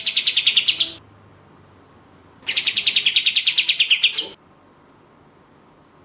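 Kapas tembak (white-shouldered triller) singing its rapid trill: two bursts of fast, evenly repeated high notes, about fifteen a second, the first ending about a second in and the second lasting nearly two seconds.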